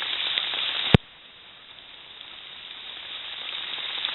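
Steady hiss of rain. A single sharp click comes about a second in; the hiss then drops away and slowly builds back up.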